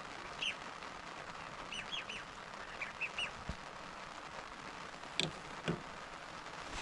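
A bird calling in short, high chirps, about seven in the first three seconds or so, over a steady hiss of light rain. Two sharp clicks come a little after five seconds.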